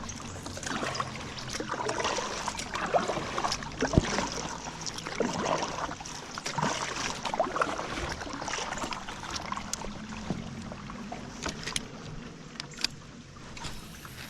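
Kayak being paddled through shallow river water: irregular paddle splashes and drips, with light knocks on the hull and one sharp click about four seconds in.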